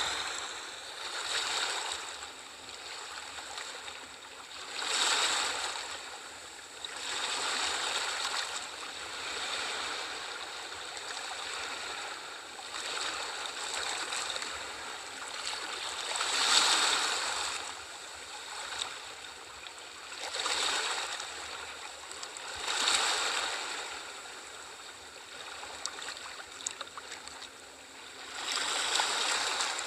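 Sea waves washing onto a shore, the hiss of surf swelling and easing every few seconds; the strongest surge comes just past halfway.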